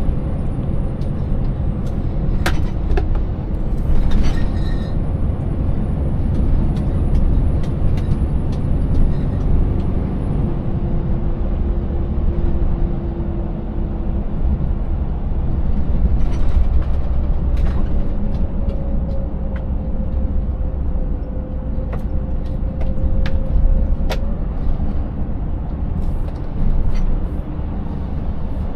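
Scania 590S V8 truck running steadily on a rough road: a continuous low engine and road rumble, with scattered clicks and knocks and a faint whine that shifts in pitch in the second half.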